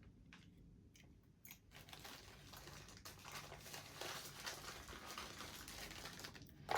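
Faint handling noises from small parts of a Märklin HR 800 N model locomotive being worked on by hand: light clicks and scraping, sparse at first and busier from about two seconds in, with a sharper click near the end.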